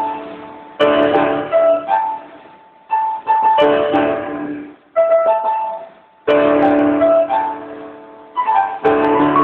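Solo piano playing a song melody over chords: each phrase is struck sharply and left to ring and fade before the next, with a fresh phrase every second or two.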